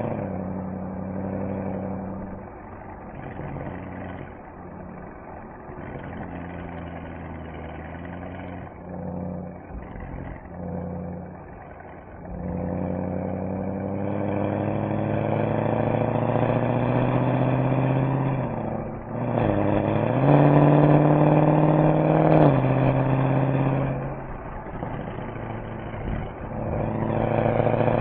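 Mercedes-AMG SL63 V8 exhaust on the road. It runs at light throttle at first, then accelerates with the pitch climbing about halfway through. A brief dip, likely a gear change, leads into a loud pull at high revs, and the engine eases off before building again near the end.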